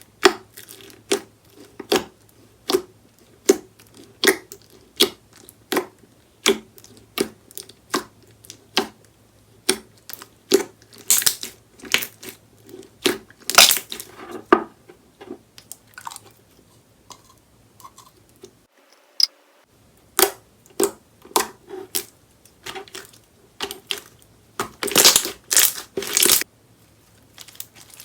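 Slime being squeezed and pressed by hand, making a rhythmic series of sticky clicks and pops a little more than once a second. There is a short pause about two-thirds of the way through, and a few louder bursts of crackling near the end.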